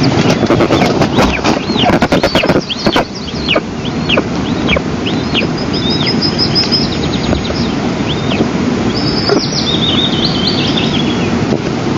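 Eastern imperial eagle chicks begging for food with repeated short, high, arching calls, about one a second, over steady wind noise. A quick run of clicks or knocks comes in the first three seconds.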